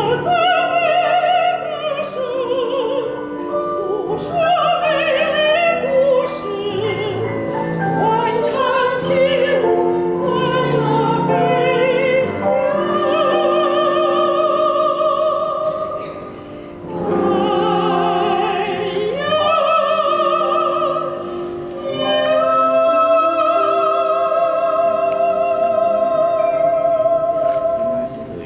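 Soprano singing with strong vibrato over piano accompaniment, ending on a long held note.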